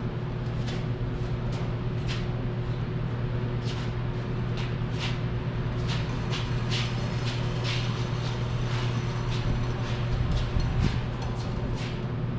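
Rope running through a pulley under load, giving short high squeaks or clicks about twice a second as the test stand is hauled up a ramp, over a steady low hum.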